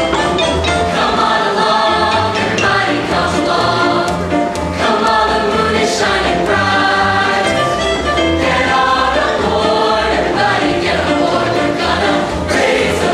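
Choir singing with instrumental backing music and a steady low beat.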